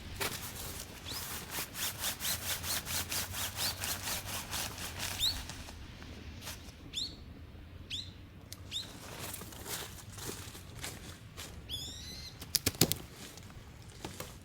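Rhythmic wingbeats of a bird flying past, about four a second, fading after about five seconds. Short, rising, high calls recur throughout, and a few sharp clicks come near the end.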